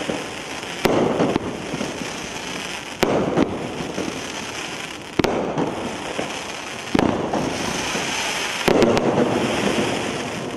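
A 500g consumer fireworks cake firing: five sharp shots about two seconds apart, each followed by a second or two of crackling. It tails off near the end.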